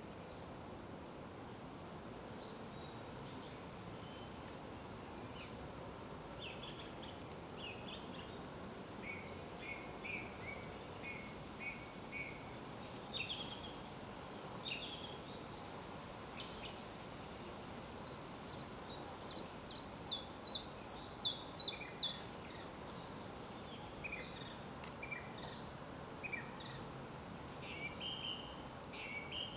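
Woodland birds calling now and then over a steady background hush, with one bird giving a loud run of about nine sharp, evenly spaced notes about two-thirds of the way through.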